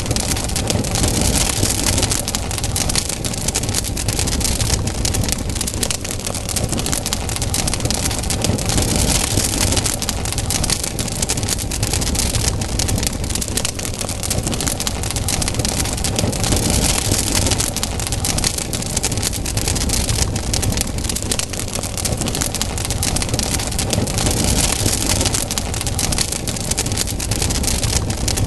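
Campfire burning, with dense crackling and popping over a steady rushing hiss that swells about every eight seconds.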